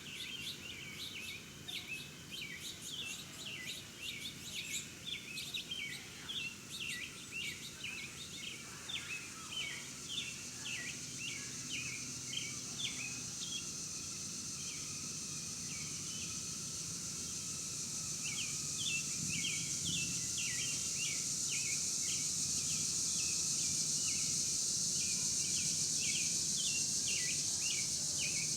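Small birds chirping rapidly and continuously, many short notes a second. A steady high-pitched hiss grows louder over the second half.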